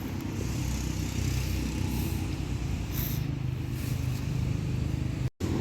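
Motor vehicle engine running steadily, a low rumble, which cuts out for an instant near the end.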